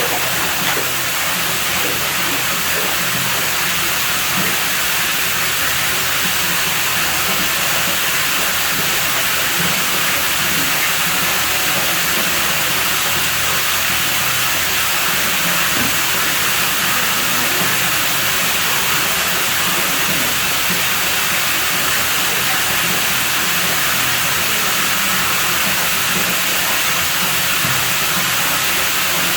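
Water running steadily, a constant, unbroken rushing hiss.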